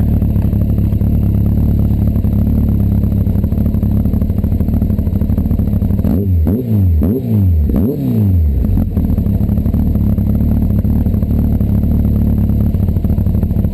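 Honda CBR1100XX's inline-four engine idling through its aftermarket exhaust, given several quick throttle blips about six seconds in that sweep the pitch up and back down before it settles to idle again.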